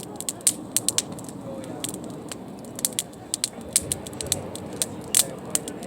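Wood campfire crackling, with sharp irregular pops and snaps several times a second.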